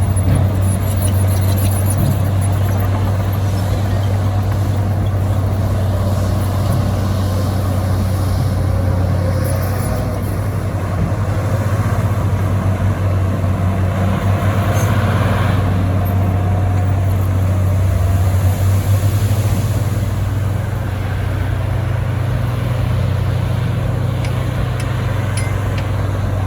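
Heavy diesel machinery running steadily with a deep, continuous engine drone. The sound comes from the bulldozers and dump trucks working the fill.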